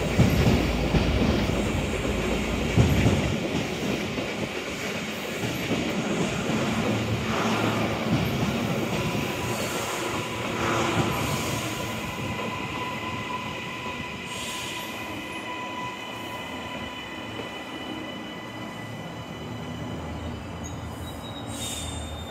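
Electric suburban passenger train rumbling on the rails as it passes beneath, loudest in the first few seconds and then easing. Thin steady high squeals or whines set in about nine seconds in and fade away near the end.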